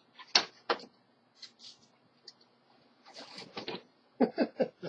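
Clicks and knocks of a Hoover Elite Rewind upright vacuum's plastic body being handled: two sharp clicks near the start, a brief scraping about three seconds in, and a quick run of knocks near the end.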